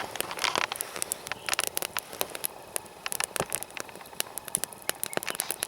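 Wood campfire of glowing coals crackling, with many irregular sharp pops.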